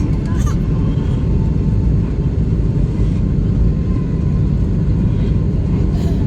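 Jet airliner's engines and airflow: a steady low rumble with a faint steady tone above it.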